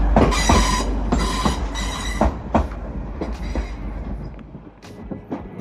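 Class 185 diesel multiple unit running over the rails: its wheels knock over rail joints and points, about two knocks a second at first, with a thin metallic wheel squeal. The sound grows fainter toward the end.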